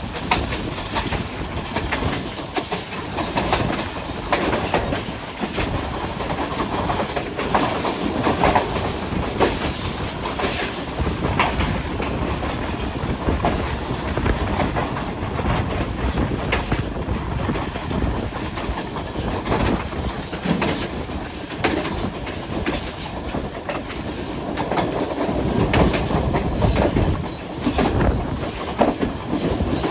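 Moving passenger train of the Hazara Express: steady rumble of the coaches with the wheels clicking over rail joints.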